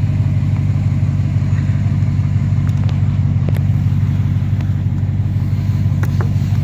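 2007 Chevy Avalanche's V8 engine idling steadily, a loud, even low rumble, heard close to the truck with a few light clicks over it.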